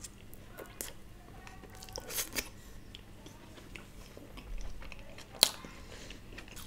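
A person chewing a mouthful of food with the mouth closed: scattered soft mouth clicks, a small cluster of them about two seconds in, and one sharper click about five and a half seconds in.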